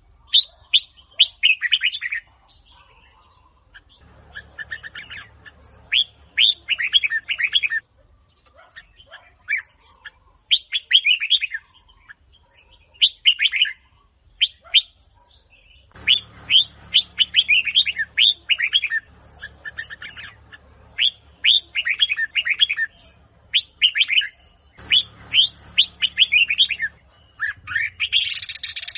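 Red-whiskered bulbul singing: quick runs of short, sharply falling whistled notes in bursts of one to three seconds with brief pauses between. A faint low hum sits under some of the bursts.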